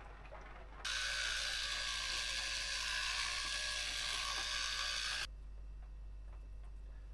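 A steady mechanical whirring for about four seconds, starting and stopping abruptly, like a small motor-driven mechanism.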